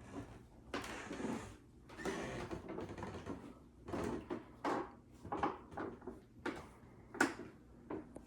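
Irregular knocks, clicks and short scraping or rustling noises in a small room.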